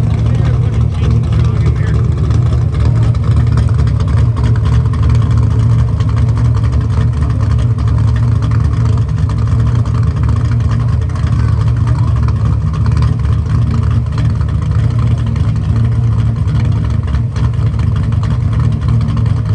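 A car engine idling steadily close by, a low even rumble that does not rev.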